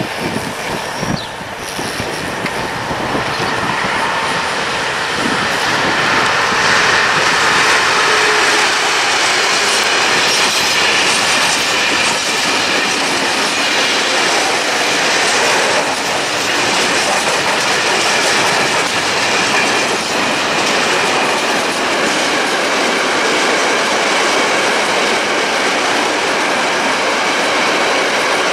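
Freight train of ballast hopper and dump wagons rolling past behind a diesel locomotive, the sound building over the first few seconds and then holding steady. The wheels clatter over the rail joints, with a faint high wheel squeal.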